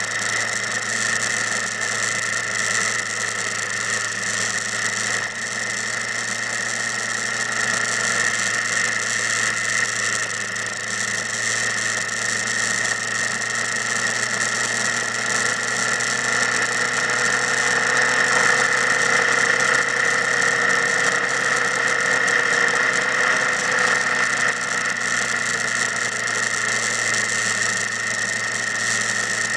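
Motorcycle engine running steadily, its pitch rising a little about halfway through and easing back again later.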